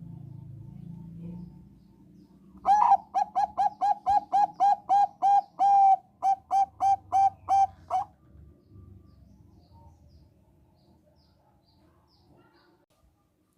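Zebra dove of the Thai 'perkutut bangkok' type singing one song: a quick run of about twenty short, clipped coos at roughly four a second, with a brief break about two-thirds of the way through.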